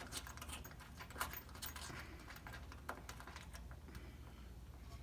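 Faint, scattered small metal clicks and taps from a wrench and a small nut being handled as the nut is taken off.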